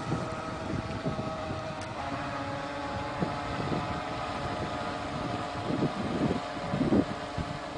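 Electric motor of a High Wind 757 NQD RC speedboat giving a steady whine as the boat runs on the water, with wind noise on the microphone underneath.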